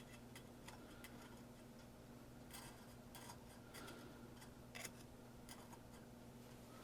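Near silence: a low steady hum with faint, irregular light clicks and taps, about a dozen, scattered through it.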